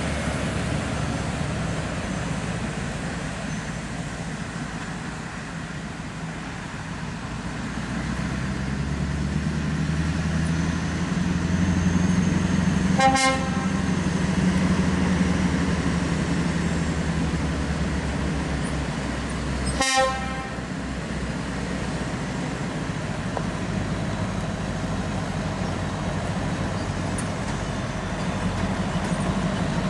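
Heavy truck diesel engine running, its low rumble swelling and easing, with two short horn toots, one about halfway through and one a few seconds later.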